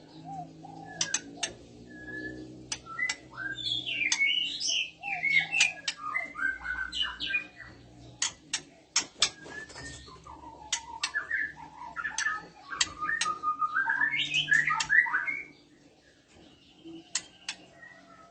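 Female white-rumped shama (murai batu) calling in breeding condition: two bouts of quick, varied chattering phrases, with sharp clicks scattered throughout.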